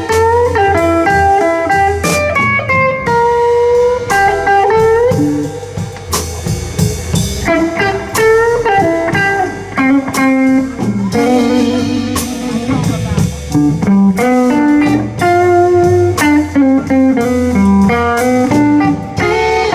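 Live blues band playing an instrumental break: a lead electric guitar with bent, wavering notes over bass guitar and drums.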